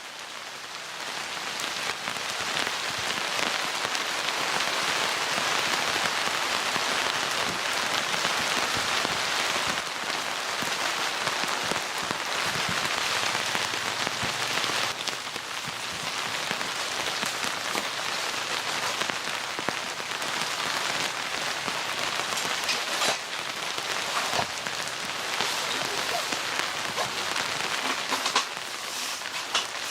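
Rain falling steadily, with a few sharper ticks of single drops in the last third.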